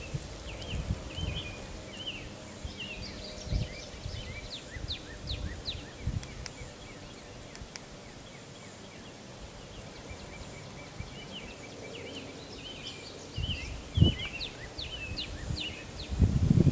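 Small birds chirping in quick runs of short high notes, in two spells, over low rumbles and dull knocks. The loudest knock comes about fourteen seconds in, and a louder rumble starts near the end.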